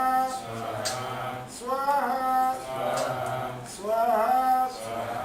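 Sanskrit mantra chanted in a steady sing-song rhythm, phrases coming about every one to two seconds, as recited at a Vedic fire offering.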